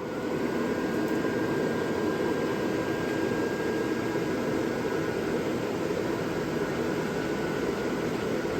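Blower fans of an airblown inflatable Christmas decoration running after being plugged in. They finish coming up to speed in the first moment, then keep up a steady rush of air with a faint steady whine.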